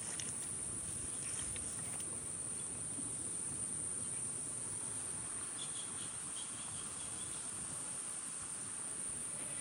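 Insects, crickets or cicadas, keeping up one continuous high-pitched trill, over a low outdoor rustle. A faint run of short chirps sounds about six to seven seconds in.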